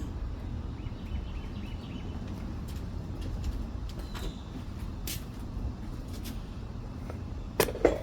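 Steady low outdoor background rumble with a few faint chirps early on and scattered light clicks, then two sharp knocks close together near the end.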